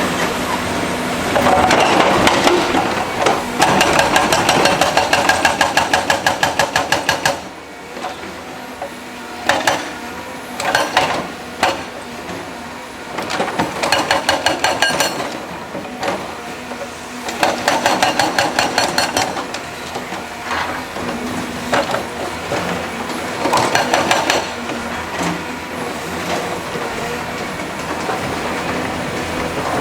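Heavy construction machinery working, with repeated bursts of rapid metallic clanking, several strikes a second, over a steady engine noise.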